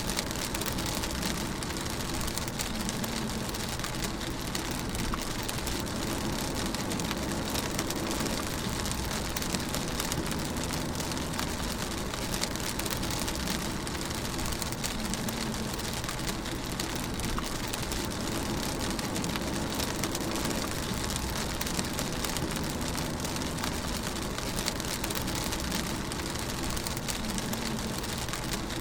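Steady rain pattering on a moving car, with the low hum of the engine and tyres underneath, heard from inside the car. Many small drop ticks over an even hiss.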